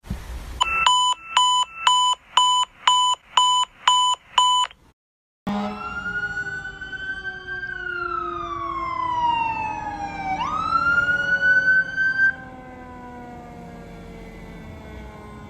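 A series of about eight loud electronic beeps, roughly two a second, then a sudden break. A fire truck siren then wails: it rises slowly, falls slowly, winds back up quickly, and then cuts to a quieter steady rumble near the end.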